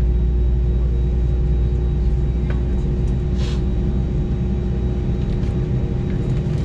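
Steady low rumble and hum inside an Airbus A319's passenger cabin, with a steady tone over it. A faint click comes about two and a half seconds in, and a short hiss about a second later.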